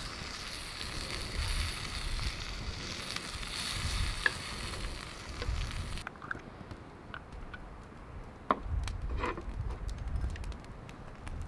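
Wagyu fillet steak sizzling as it cooks over a campfire, a dense steady hiss. About halfway the sizzle cuts off suddenly, leaving only scattered sharp crackles and ticks.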